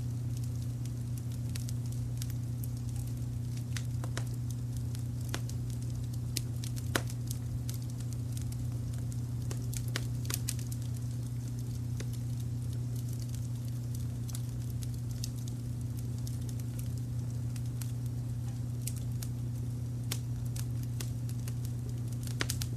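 Wood fire crackling, with irregular sharp pops and snaps scattered throughout and a louder pop about seven seconds in. Under it runs a steady low rumble of brown noise.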